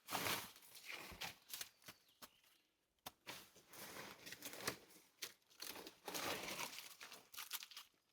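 Irregular rustling and crunching of dry branches and forest litter being handled, broken by a few sharp clicks, with a short lull about a third of the way in.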